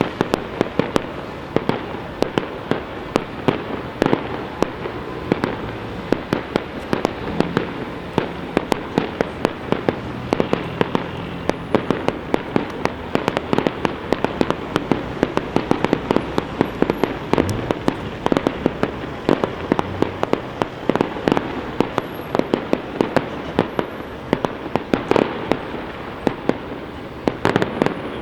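Large professional fireworks display: a dense barrage of shell bursts and sharp bangs, several a second, with no let-up.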